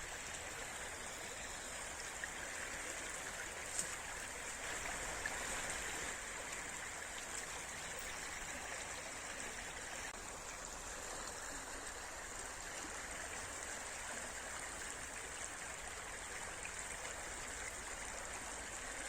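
A small river flowing: a steady rush of running water.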